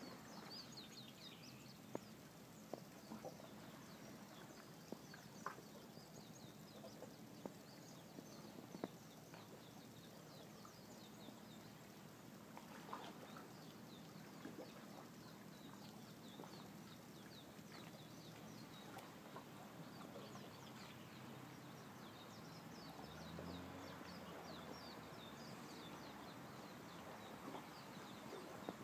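Faint outdoor ambience with many quick, high chirps of small birds recurring throughout, and a few scattered clicks.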